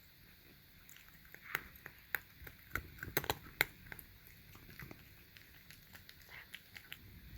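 Cat eating canned wet food from a dish: a run of small sharp clicks and smacks from chewing and licking, thickest in the first half.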